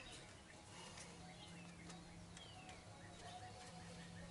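Near silence: faint bird chirps in the background, a few short downward-sliding calls, over a faint steady low hum.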